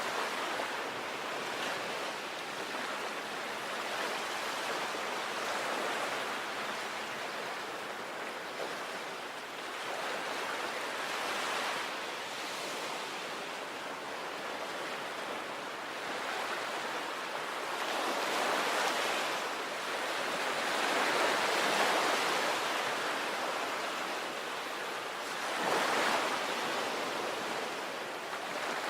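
Sea waves breaking and washing on the shore: a steady rush of surf that swells as each wave comes in, every few seconds, with the strongest surges in the second half.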